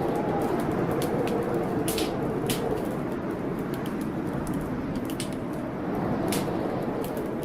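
Steady blizzard wind blowing, with a wood fireplace crackling over it in sharp, irregular pops.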